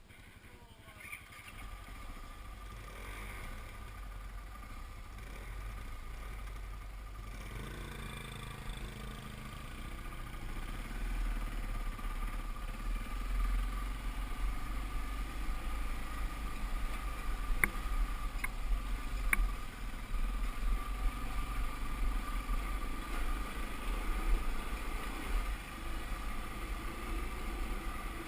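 Dirt bike engine running, growing louder over the first few seconds and louder again after about ten seconds. Three sharp clicks come about two-thirds of the way through.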